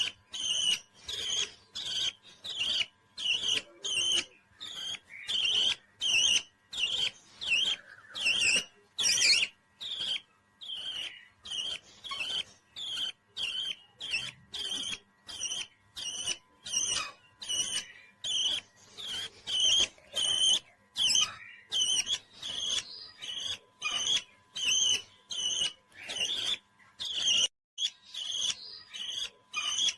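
Parrot calling in a steady series of short, high chirps, nearly two a second, with a brief pause near the end.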